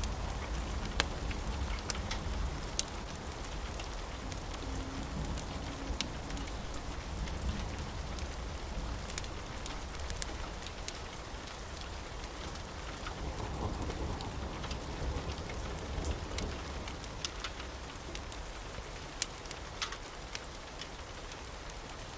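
Steady rain with a low rumble of thunder underneath, and scattered sharp crackles and pops from a wood fire.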